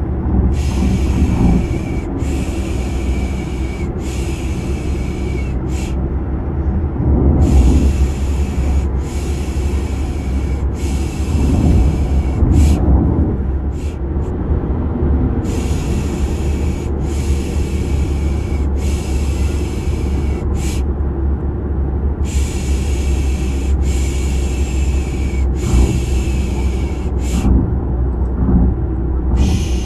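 Rhythmic 'piş piş' shushing for lulling a baby, in sets of three long shushes and a short one with pauses between, over a steady low car-engine and road rumble.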